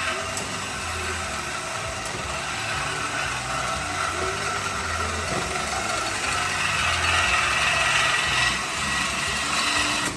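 Power tool cutting through the steel exhaust pipe to remove the mid mufflers (resonators) for a straight-pipe setup. A loud, steady, grinding-rasping run with a pulsing low end, which stops abruptly at the end.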